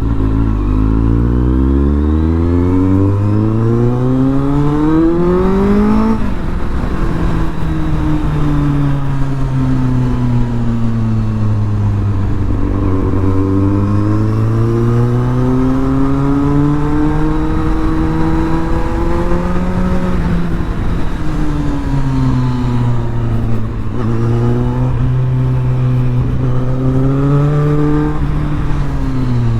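Kawasaki Z800's inline-four engine through an Arrow titanium exhaust under way, revving up hard for about six seconds before a gear change drops the revs sharply. It then runs at part throttle, the engine note slowly falling and rising as the throttle is eased and opened, with another brief rise near the end.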